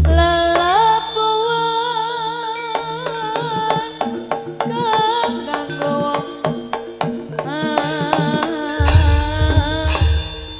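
East Javanese Jaranan ensemble music: a wavering, sliding melody line held over steady drone tones, with quick kendang drum strokes throughout and deep booms coming in about nine seconds in.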